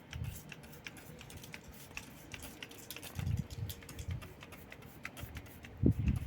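A rapid, irregular run of light clicks and ticks, several a second, with a couple of soft low thumps.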